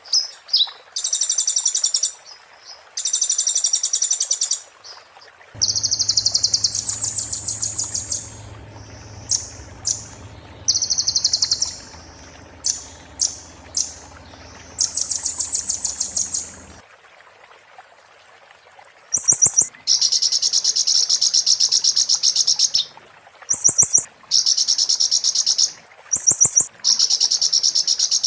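A konin songbird singing rapid, high-pitched rattling trills in repeated bursts of one to three seconds with short pauses between them.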